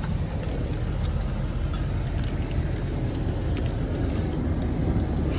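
2009 GMC Sierra 1500 pickup's engine running steadily with a low, even rumble.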